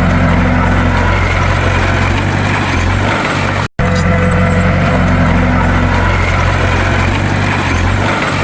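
Bulldozer's diesel engine running steadily with a deep, even hum. The sound cuts out completely for an instant a little under four seconds in, then carries on unchanged.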